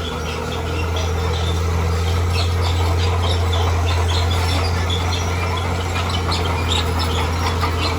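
Bulldozer's diesel engine running steadily with a deep hum that grows a little about a second in, over many quick high-pitched squeaks and clinks.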